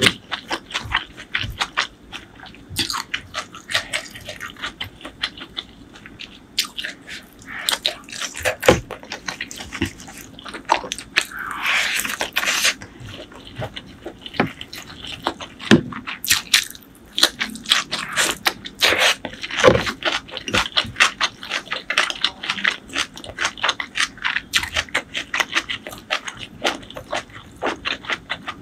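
Close-miked eating sounds: rapid wet clicks of chewing and lip smacking from someone eating rice and curry by hand, with a longer noisy stretch about twelve seconds in.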